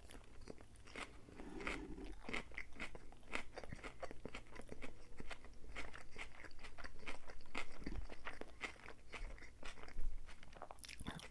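Close-miked chewing of a mouthful of salad, crisp lettuce crunching in quick, irregular bites.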